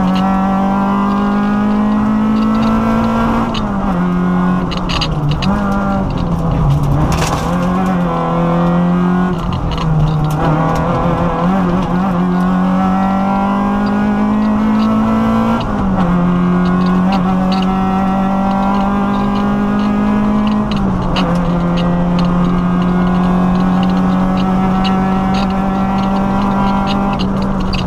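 Peugeot 205 rally car's engine heard from inside the cockpit under hard acceleration: the engine note climbs steadily and drops sharply at each upshift, about three times, a few seconds in, about halfway and again later. Light rattles and clicks from the stripped car run over it.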